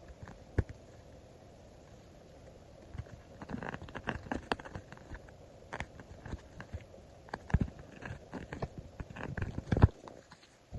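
Paper and plastic stickers being handled, peeled and pressed down by hand: irregular light taps, clicks and crinkly rustles. They are sparse at first and come thick and fast through the middle and latter part.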